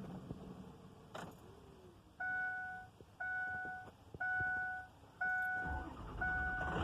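Truck's dashboard warning chime beeping about once a second, then the Ford 6.0 Power Stroke turbo-diesel V8 cranking and starting near the end, a crisp startup.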